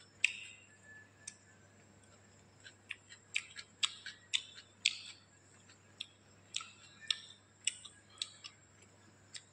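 Close-up eating sounds of someone chewing rice and chicken gravy eaten by hand: a string of sharp, wet clicks and smacks at an uneven pace, with a pause of about two seconds early on.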